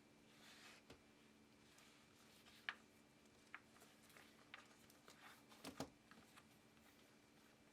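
Near silence with a faint steady hum, broken by scattered small clicks and light handling noises, the sharpest about a third of the way in and a small cluster past the middle.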